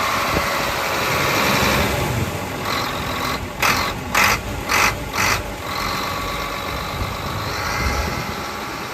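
HOWO 6x4 water truck's diesel engine idling steadily, with four short, loud bursts of hiss in quick succession around the middle.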